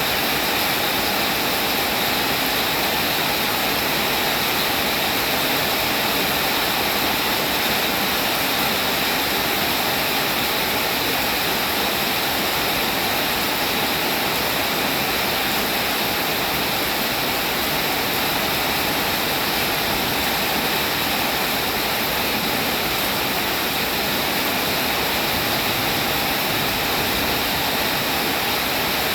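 Steady heavy rain, an even hiss of falling water with no distinct drops or changes.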